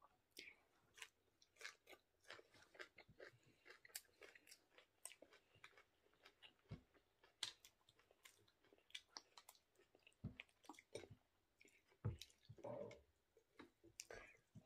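Faint close-up chewing of cooked water spinach (kangkong): a quick, irregular run of small crunching and smacking clicks.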